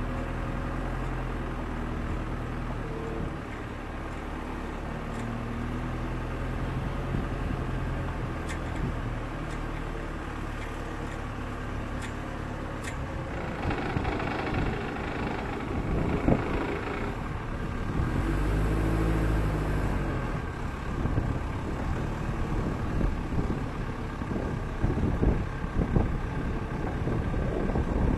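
Motorised yacht transport machinery running with a steady low hum, a few sharp clicks and a louder stretch of hum partway through.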